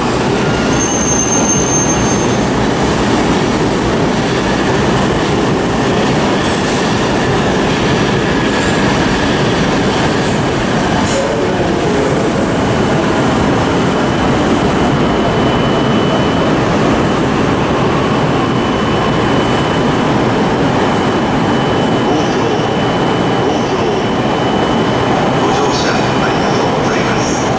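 JR electric commuter trains running over the tracks: a steady rumble of wheels on rail and motors. A thin, high wheel squeal comes in about halfway through and holds on.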